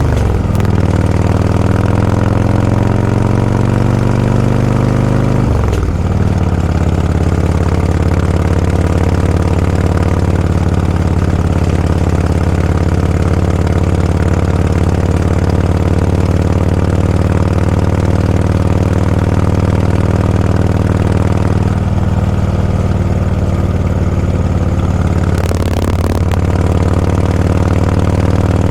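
Motorcycle engine running while riding. Its pitch falls right at the start and again about six seconds in, then holds steady at an even speed, with brief throttle changes near the end.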